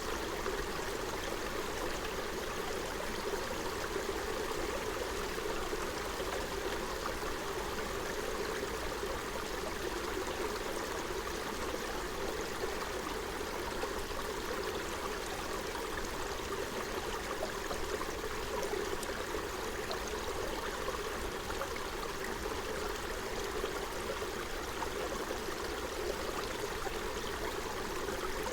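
Forest stream flowing over stones: a steady rushing and babbling of running water with no break or change.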